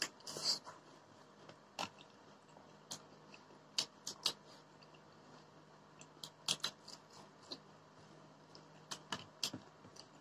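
Close-up eating sounds of people eating rice and curry by hand: quiet chewing with scattered short mouth clicks and smacks at an irregular pace.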